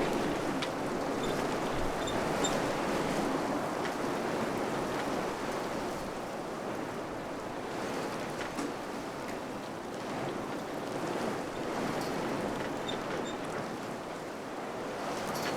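Wind blowing steadily, a rushing noise that swells and eases slowly, with a few faint clicks.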